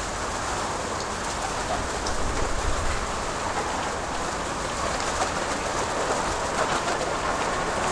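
Steady patter of rain, with an unsteady low wind rumble on the microphone.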